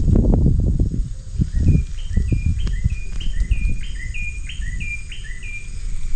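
A bird calling, repeating a short falling chirp about three times a second for roughly four seconds, starting a little under two seconds in. Under it are low thuds and rustling, loudest in the first two seconds.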